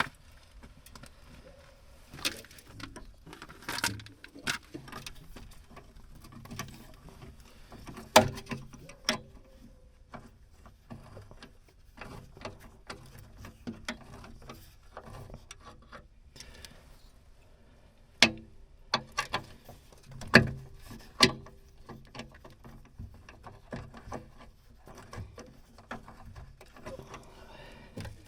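Scattered clicks and knocks of hand tools and bolts being handled while fitting a bracket, with a sharper knock about eight seconds in and a cluster of louder knocks a little past the middle.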